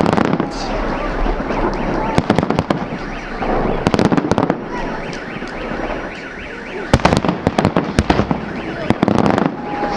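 Salute fireworks going off in clusters of sharp bangs and crackles, about four volleys, over a steady rumble. A repeating electronic alarm tone sounds faintly through the first half.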